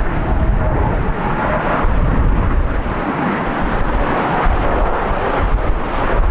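Jet airliner engines: a loud, deep, noisy rumble with no clear tones.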